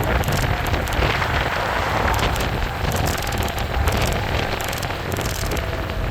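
Wind buffeting the microphone on a moving e-bike, over a steady low rumble of the tyres on the road, with scattered light clicks and rattles.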